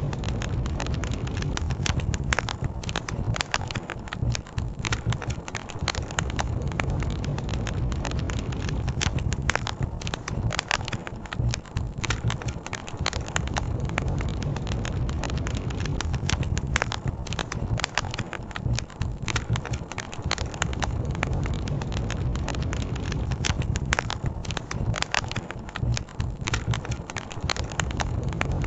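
Wood campfire crackling, with many quick pops and snaps scattered throughout, over a steady low rush of a flowing river.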